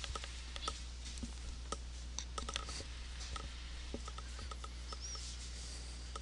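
Irregular light clicks of a computer mouse and keys being used, over a steady low electrical hum.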